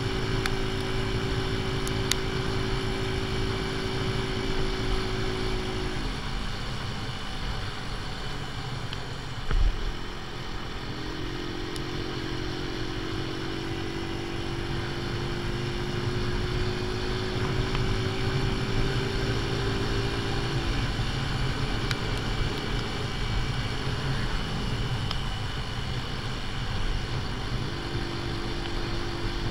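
AJS Tempest Scrambler's single-cylinder engine running at road speed, with its ignition timing set half advanced, over steady wind noise. The engine note dies away about six seconds in, with a single thump near ten seconds. It then picks up and rises slowly in pitch for about ten seconds, eases off, and comes back near the end.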